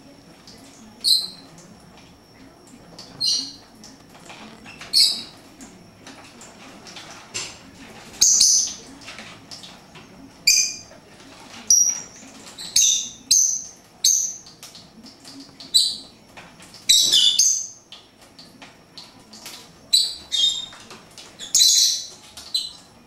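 Pet birds giving short, high chirps and calls, one every second or two, some in quick clusters.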